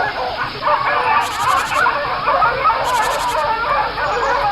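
A pack of African wild dogs giving many overlapping high, wavering twittering and squealing calls without pause, the excited calling of dogs mobbing a hyena in a fight over food.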